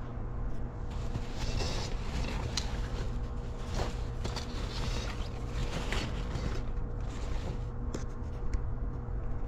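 Rustling with scattered clicks and light knocks, like items being rummaged through and handled, over a steady low mechanical hum.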